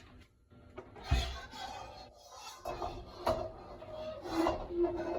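Cookware handling at a wok: a knock about a second in, then irregular scraping and rubbing with brief squeaks.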